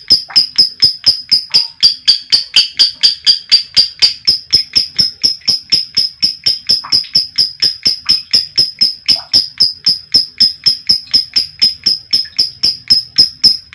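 Female lovebird's long 'ngekek' call: an unbroken run of sharp, high 'kek' notes, about four to five a second, kept up without a pause.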